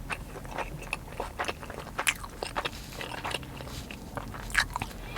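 Close-up chewing of a mouthful of sushi, with irregular crunches and small wet mouth clicks.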